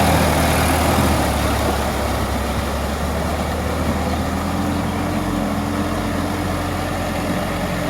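Farm tractor engine running steadily while tilling a field, its note shifting slightly about halfway through.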